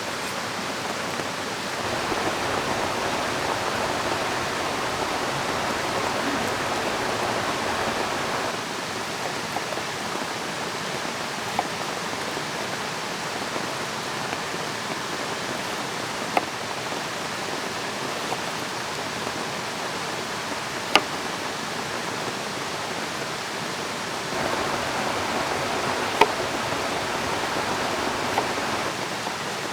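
Steady rush of a flowing river mixed with rain. It swells louder twice for several seconds, once near the start and once near the end. A few sharp ticks stand out now and then.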